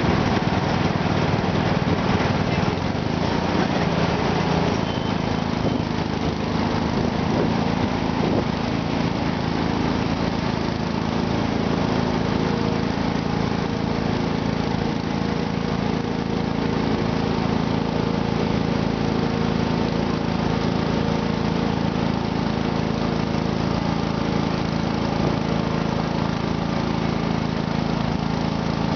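Garden tractor engine running steadily at an even pitch, with no revving, getting a little fuller about five seconds in.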